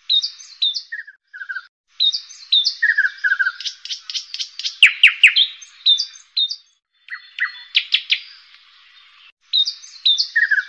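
Birdsong: quick repeated chirps, short falling whistles and little trills, with the sound cutting out abruptly to silence a few times.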